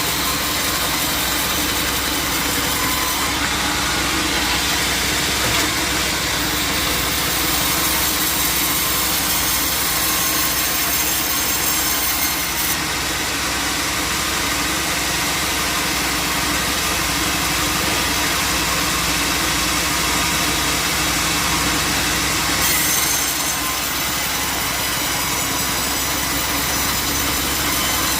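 Sawmill running: a steady engine with a saw cutting through wood. The high hiss of the cut grows stronger for long stretches and then eases back.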